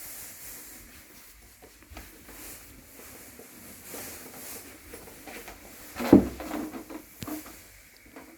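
Scattered clicks and small knocks of things being handled during indoor installation work, with one louder thump about six seconds in.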